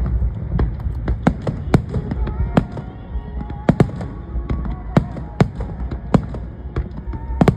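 Aerial fireworks bursting in a rapid, irregular barrage of sharp bangs, about two to three a second, over a continuous low rumble. Two of the loudest bangs come in quick pairs, about halfway through and near the end.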